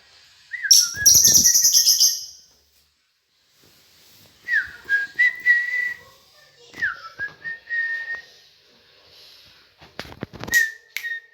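Lovebird calling: a loud shrill chatter about a second in, then repeated whistled notes that each dip briefly and then hold a steady high pitch.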